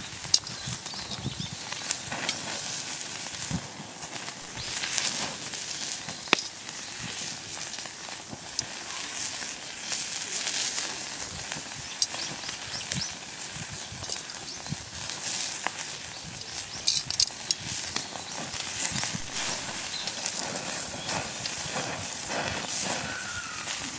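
Harami (beef skirt steak) sizzling on a thick iron teppan plate over a wood fire, with irregular sharp pops and crackles throughout.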